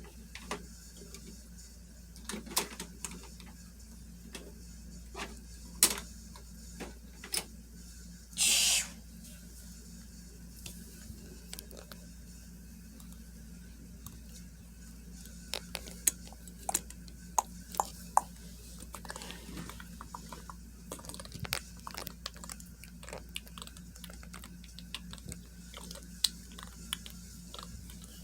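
Light plastic clicks and knocks at irregular intervals, a toy garbage truck and its bins being handled, with a short burst of hiss about eight and a half seconds in.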